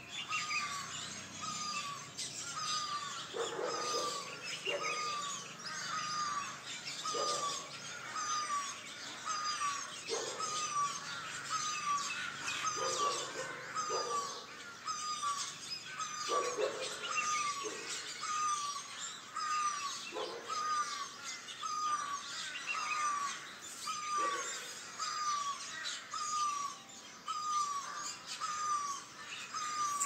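Morning chorus of several birds: one repeats a short falling note about once a second over a dense layer of high chirps, with lower calls from another bird every few seconds.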